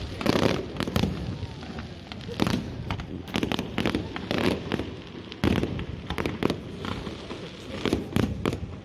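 Fireworks display: shells bursting in irregular succession, sharp bangs coming singly and in quick clusters over a continuous rumble and crackle.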